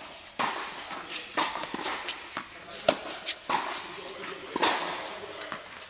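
Tennis practice: irregular sharp knocks of tennis balls being struck and bouncing, a few every second, with players' voices in the background.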